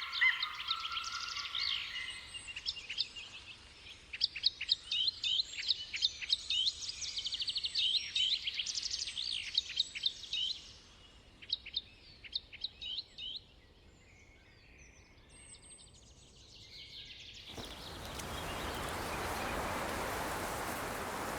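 Birds calling in quick runs of high, sharp chirps, which fade out about 13 seconds in. A few seconds later a steady rushing noise like surf or wind rises in.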